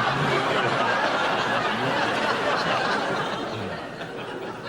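Studio audience laughing, a dense wash of many people's laughter that dies down about three and a half seconds in.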